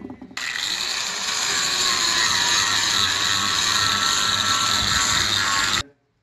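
Electric power sander running steadily while sanding a wooden board, with a faint tone that drops slightly in pitch. It starts about half a second in and cuts off suddenly near the end.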